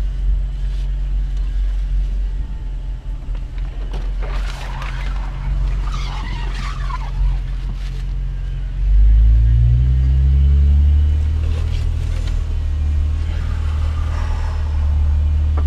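Jeep Wrangler JK's engine droning low, heard from inside the cabin while it drives a dirt off-road trail. About nine seconds in, the engine note rises in pitch and gets louder as it pulls harder.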